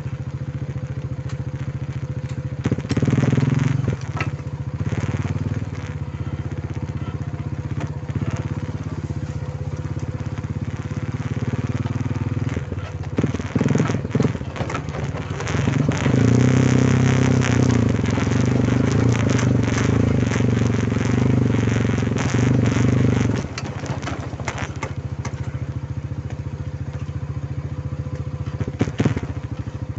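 Quad bike (ATV) engine running under way, louder for several seconds past the middle, with crackling and knocking noise throughout.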